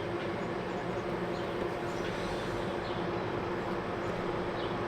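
Steady outdoor background hum with a few faint, short bird chirps.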